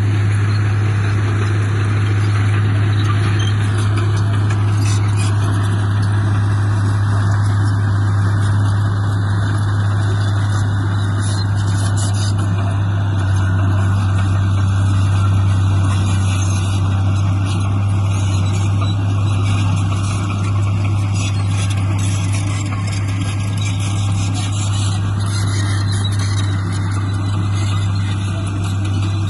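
Diesel engine of heavy earthmoving machinery running steadily, with a strong low hum.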